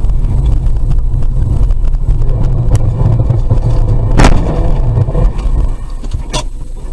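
Loud low rumble of a car on the move, with a sharp knock about four seconds in and another near the end. The rumble eases off about a second before the end.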